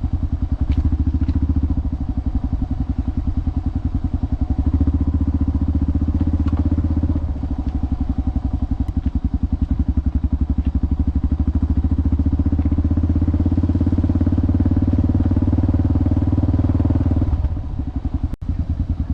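Motorcycle engine running under way, a fast steady pulse with a dip in level about seven seconds in and an easing off near the end.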